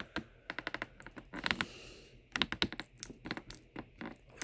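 Plastic clicking and rattling in irregular quick clusters as the stiff new hose cuff of a shop vacuum is worked and twisted into its inlet.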